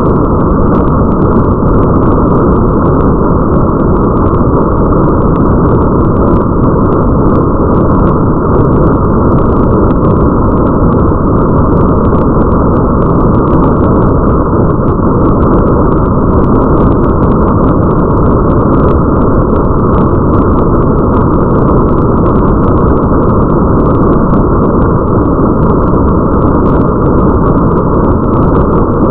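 Steady, muffled rain-and-rumble ambience bed: a dense, low rain hiss with a deep rumble, all of its high end cut away, and faint scattered drop-like ticks above.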